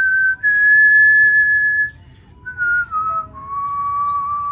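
A person whistling a slow run of long, breathy held notes. The first two notes step slightly up and the later ones step down, with short gaps between them.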